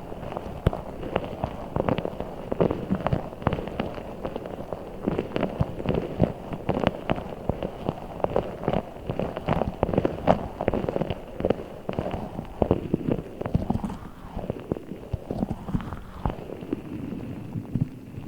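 Giant Orbeez water-bead ball being handled, making a dense, irregular run of short taps and squishes.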